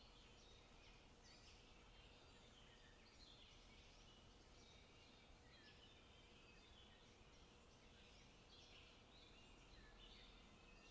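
Faint forest ambience with small birds singing: many short chirping phrases, high-pitched and overlapping, over a low steady background hum.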